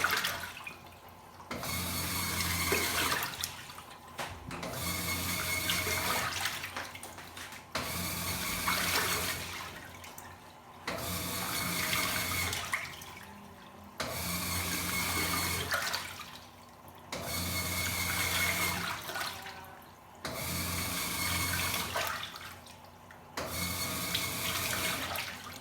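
Washing machine agitating a load in water: the motor hums and the water churns in strokes of about two to three seconds, with short pauses between as the drum reverses, about eight times over.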